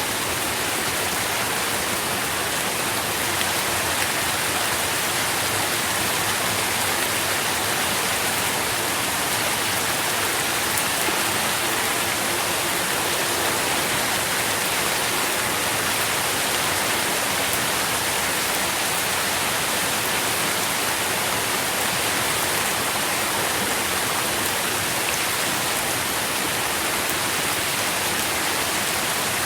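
Steady rain falling, an even hiss of many drops with no breaks or single events standing out.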